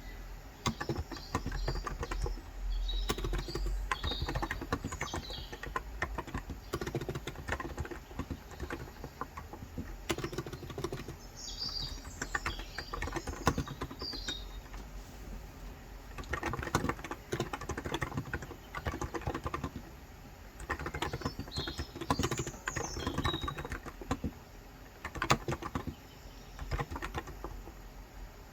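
Typing on a Cox Endeavor 35 g tenkeyless electrostatic capacitive keyboard, a dense run of soft key presses with brief pauses. Birds chirp in three short spells over the typing.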